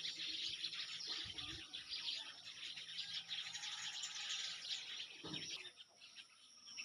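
Many small birds chirping and twittering at once in a dense chorus that thins out near the end. Two brief low thumps come about a second in and again near the end.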